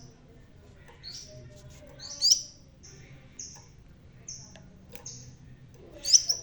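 Sepah raja sunbird singing: a string of short, high chirps and quick notes, with two louder sharp calls, one about two seconds in and one near the end.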